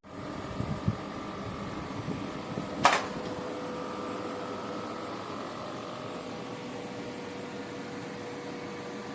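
Portable air conditioner running with a steady hum and faint whine, with one short sharp click about three seconds in.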